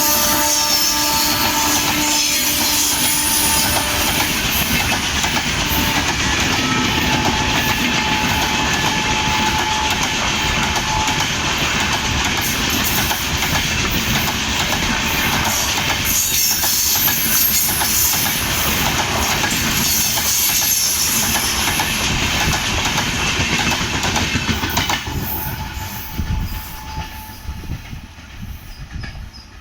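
The last of a horn blast cuts off just after the start. Then a long train of LHB passenger coaches runs past close by, steel wheels clattering over the rail joints with a faint wheel squeal. The sound fades over the last few seconds as the end of the train goes by.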